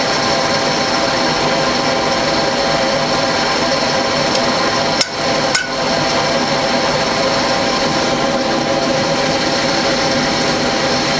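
A small electric motor-driven machine running steadily, a continuous whirring drone with several steady tones, briefly dipping twice about five seconds in.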